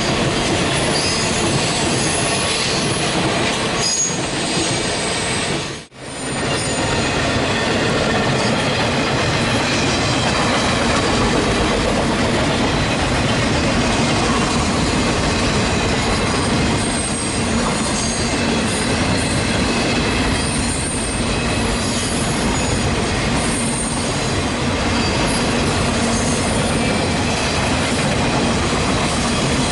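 Circus train cars rolling past, steel wheels on rail, with occasional high wheel squeal. The sound drops out suddenly for a moment about six seconds in.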